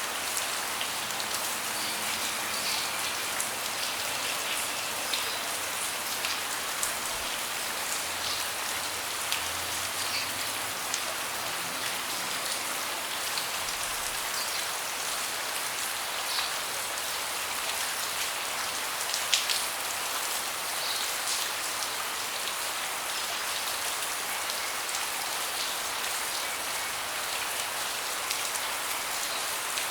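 Steady rain falling on a deck, with scattered individual drops tapping throughout and one sharper drop about two-thirds of the way through.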